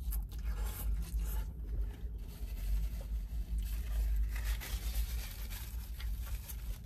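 Close-up eating sounds: a lettuce-wrapped burger being bitten and chewed, with scattered small crunches, clicks and some wrapper rustling.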